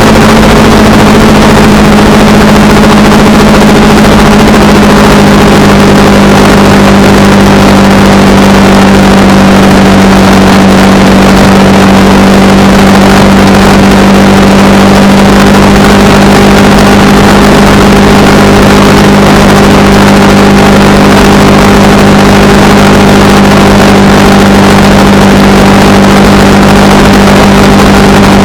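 Honda Rebel 300's single-cylinder engine running at a steady cruise on the road, over a steady rushing noise. The engine note eases slightly lower in the first few seconds, then holds even.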